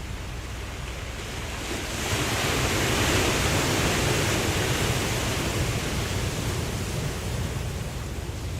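Ocean waves breaking on a beach: a steady wash of surf that swells into a louder crash about two seconds in and slowly ebbs away.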